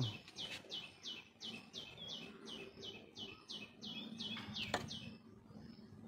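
A bird calling a rapid series of short, high, falling chirps, about four a second, that stops about five seconds in. A single sharp click sounds near the end of the series.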